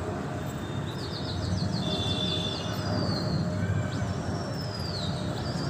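A bird's high whistling calls: a fast warbling run of notes, then long falling whistles, then another warbling run near the end, over a steady low city rumble.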